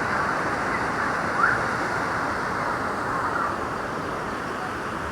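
Steady rush of creek water tumbling through rocky pools below a footbridge, with a faint short rising chirp about a second and a half in.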